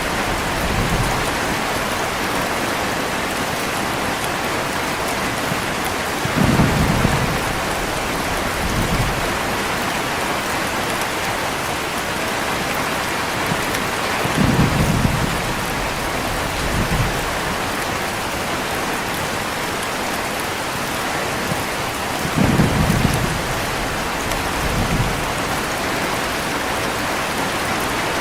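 Heavy rain falling steadily, with low rolls of thunder about every eight seconds, three in all, each followed by a smaller rumble a couple of seconds later.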